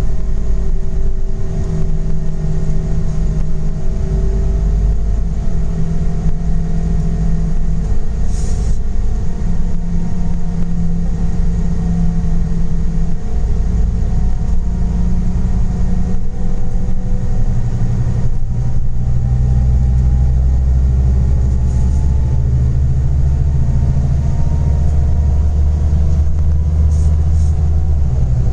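Scania Interlink natural-gas (CNG) bus engine running under way, a deep rumble whose pitch rises and falls slowly as the bus speeds up and eases off. There is a short hiss about eight seconds in.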